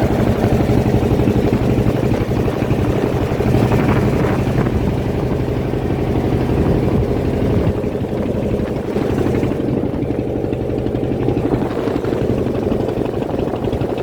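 Fishing boat's engine running steadily at an even speed, with a dense low hum from the engine and a hiss of wind and water above it.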